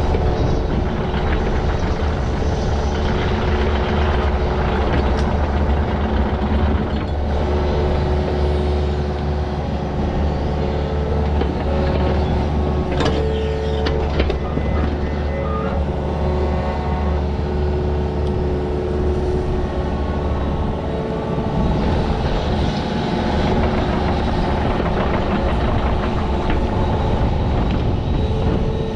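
Diesel engine of a digging machine running steadily under load, with a couple of sharp metal clanks about halfway through.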